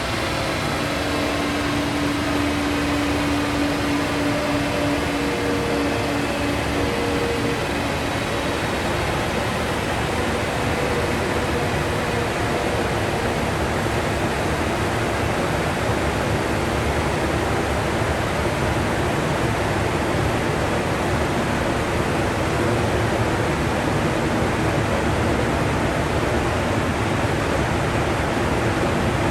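Steady loud rushing air from a dyno cell's cooling fan, with faint steady tones in the first several seconds that fade out.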